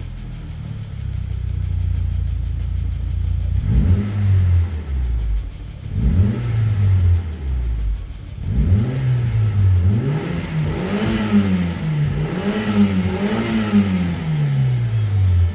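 1998 Mitsubishi Lancer Evolution V GSR's turbocharged 4G63 inline-four, breathing through an HKS aftermarket muffler, idling steadily and then blipped on the throttle. Two single revs come about four and six seconds in, then a run of quick rises and falls near the end.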